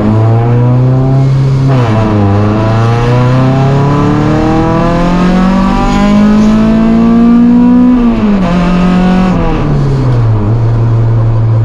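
Honda Civic's engine heard while driving: its pitch climbs slowly for several seconds under acceleration, drops suddenly about eight seconds in, then falls back to a steady low drone near the end.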